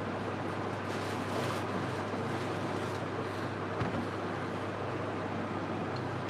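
Steady low machine hum under an even hiss, with a brief soft knock about four seconds in.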